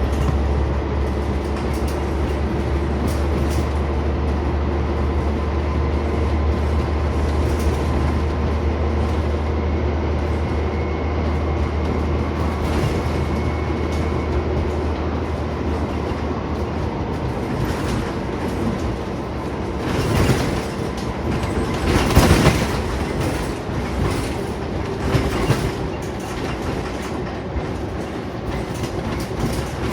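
Scania Omnicity single-deck bus heard from inside while on the move: a steady low engine drone with road and cabin noise. More than halfway through, the deep hum drops away, and a run of louder knocks and rattles follows.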